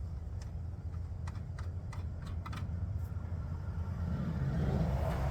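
Scattered light clicks and taps of hand tools and parts being handled, over a steady low rumble; a louder rushing noise swells up near the end.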